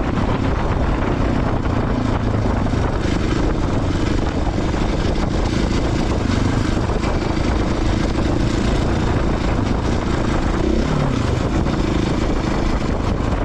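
Off-road motorcycle engine running steadily under way on a dirt trail, picked up loud and close by an action camera.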